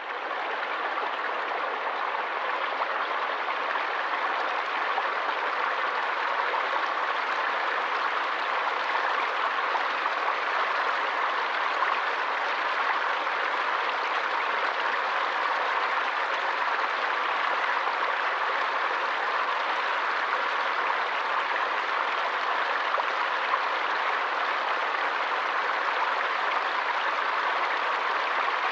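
A small stream rushing and splashing over rocks, a steady even rush of water that fades in at the start.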